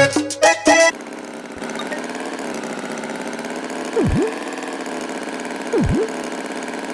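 Accordion music cuts off about a second in, then an engine idles steadily. Twice, about four and six seconds in, a short swooping tone drops sharply in pitch and springs back up.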